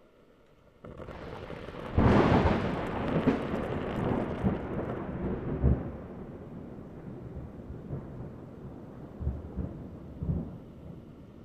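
A roll of thunder: it swells about a second in, breaks loudly about two seconds in and rumbles away slowly, with smaller rumbles near the end.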